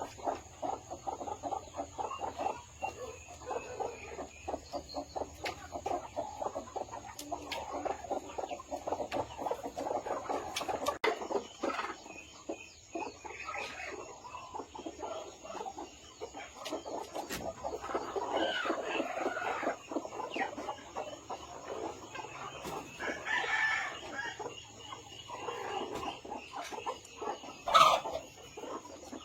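A flock of chickens clucking continuously, many short overlapping calls, with a few louder, longer calls standing out in the second half. A single sharp knock near the end is the loudest sound.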